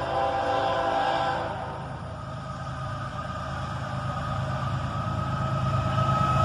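Freight locomotive horn chord trailing off in the first second and a half. Under it, the diesel engines of a pair of GE AC44CW locomotives run steadily, and the train grows louder toward the end as it comes closer.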